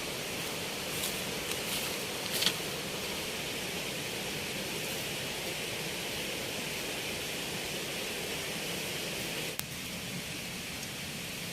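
Steady outdoor noise haze with no clear tone, with a few light rustles or clicks about two seconds in and a sharp click near the end.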